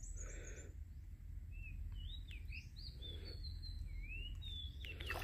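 Birds singing outdoors: a string of short whistled notes, each rising or falling, over a quiet steady low background rumble.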